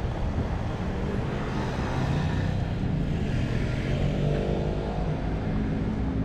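A motor vehicle's engine running close by in city street traffic, a steady low rumble throughout.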